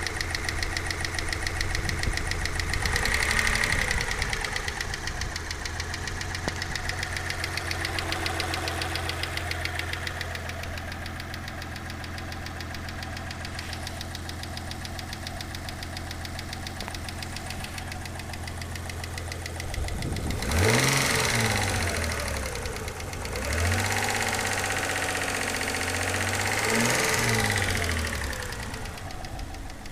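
Mitsubishi 6G73 2.5-litre V6 idling with a steady, rhythmic knock even though its bottom end has just been rebuilt. It is revved up briefly about two-thirds of the way in, then again for longer near the end, the knock running on through the revs.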